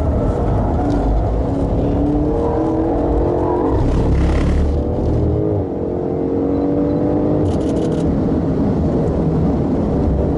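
BMW M5 engine accelerating hard on track, its pitch climbing through the revs and dropping with a gear change just past halfway before climbing again, heard from inside the car.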